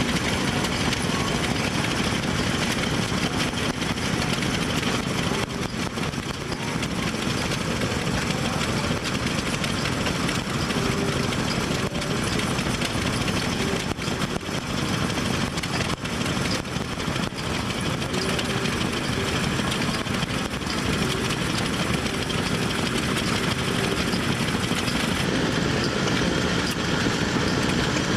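Old engines running steadily together, a continuous mechanical din with no single event standing out.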